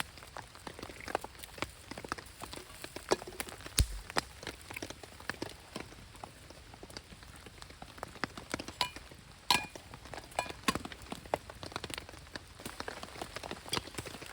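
Heavy rain falling, with a steady hiss and many irregular sharp taps of drops striking a surface.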